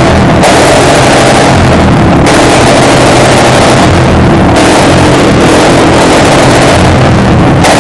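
Modified Royal Enfield Bullet single-cylinder engine running very loud through an aftermarket free-flowing exhaust, the throttle opened and closed so the note swells and drops every second or two.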